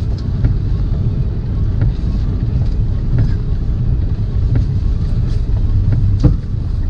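Semi truck's diesel engine running, a steady low rumble heard from inside the cab, with scattered light taps of heavy rain on the cab.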